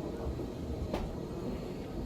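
Steady low background rumble, with a single sharp click about a second in.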